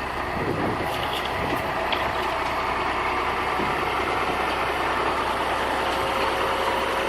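International HX dump truck's diesel engine idling steadily.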